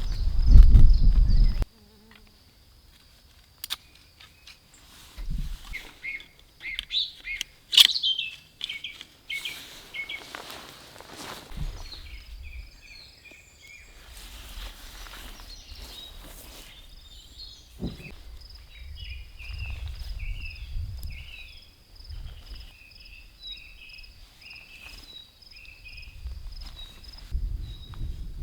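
Outdoor ambience: an insect trilling steadily at a high pitch throughout, with birds chirping in quick runs of short notes, mostly in the second half. A loud low rumble in the first second and a half, and a few scattered knocks and clicks.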